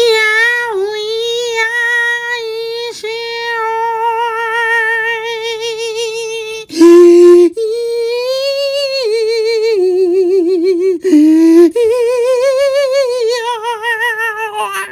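A high voice holding long humming or singing notes with a fast, wide vibrato, dropping to a lower note twice for a second or so before returning.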